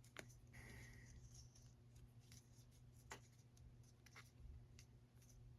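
Near silence with faint handling noise: a few light clicks and a brief scratch as the small parts of a pressure vacuum breaker and a cut rubber O-ring are handled.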